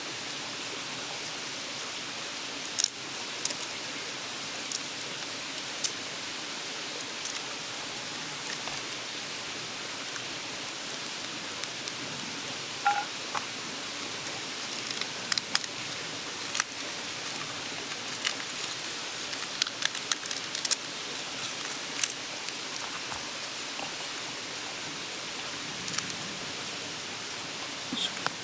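Steady rushing murmur of a mountain stream, with scattered sharp clicks and taps over it.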